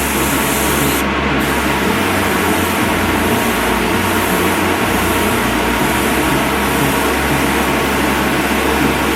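Paint being sprayed onto a car bumper: a steady, even hiss with a low motor hum beneath it.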